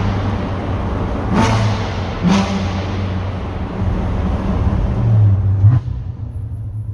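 Chevrolet Corvette Z06's V8 exhaust echoing in a tunnel, the engine pulling with a deep steady drone, with sharp cracks about one and a half and two and a half seconds in. It grows louder, then drops off abruptly as the throttle closes near six seconds.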